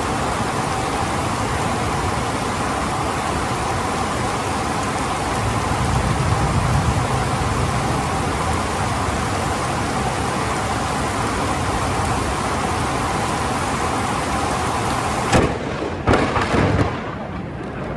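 Heavy rain pouring steadily. About fifteen seconds in, a double lightning strike: a sudden, sharp thunderclap, then a second, louder crack that rattles on for about a second.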